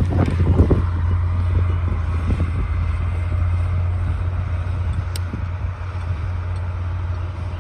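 D60 bulldozer's diesel engine running steadily with a low drone, with a sharp click about five seconds in.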